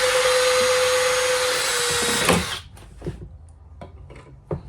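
Power drill running at a steady full-speed whine for about two seconds, then stopping. A few light knocks and clicks follow, and the drill starts up again at the very end.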